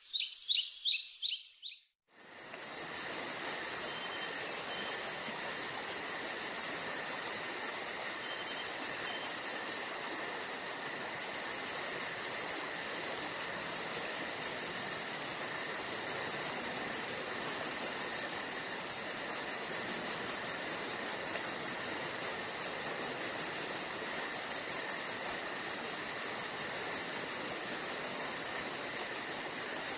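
Forest ambience. A bird's rapid chirps for about two seconds, then a sudden cut to a steady chorus of insects with a high, fast-pulsing trill over a constant buzz.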